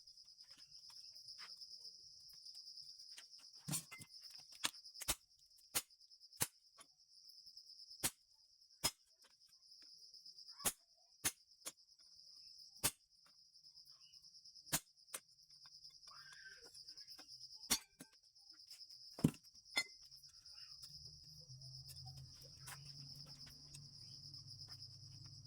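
Crickets trilling steadily, with about twenty sharp single taps or clicks at irregular intervals of roughly a second; a low hum comes in near the end.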